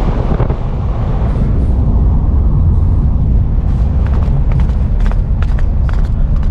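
Vehicle driving on a rough road: a steady, loud low rumble of engine and road noise, with a run of sharp clicks and knocks from about halfway through.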